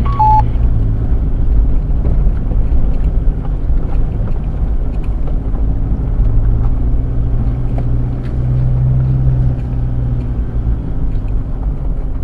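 Off-road vehicle engine running with a steady low rumble while driving, its hum growing stronger about six seconds in and easing off again near ten seconds, with light knocks and rattles throughout.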